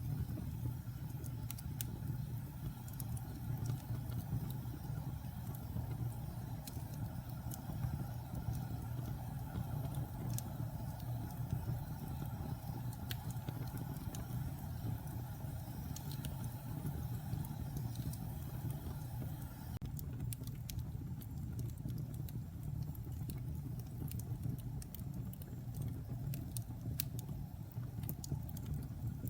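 Wood fire burning in a fireplace: a steady low rumble of the flames with scattered small crackles and pops from the burning wood.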